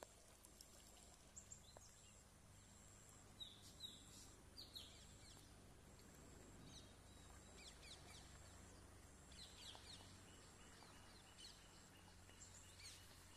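Faint outdoor ambience: birds chirping briefly several times, over a thin high-pitched tone that comes and goes about once a second and a low steady rumble.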